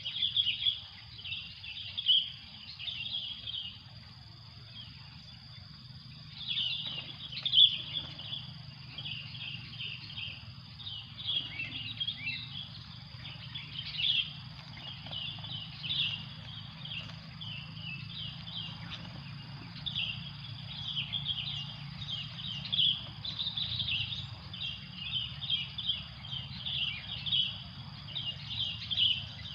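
Many small birds chirping in quick, short notes, over a thin steady high-pitched tone and a low steady hum.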